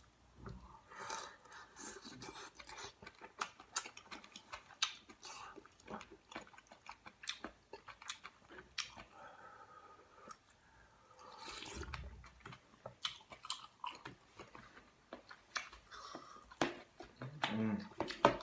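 A person eating kimchi stew: close, wet chewing and mouth sounds with many sharp little clicks throughout. Twice near the middle there is a longer, drawn-out sound.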